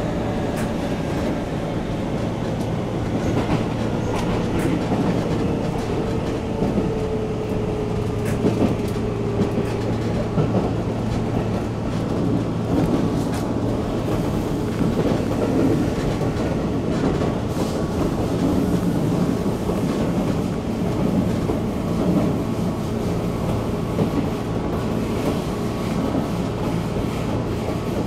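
Keisei 3400 series electric train running along the line, heard from on board: a steady low rumble of wheels and running gear with rail-joint clatter. A whine drops slowly in pitch during the first ten seconds or so.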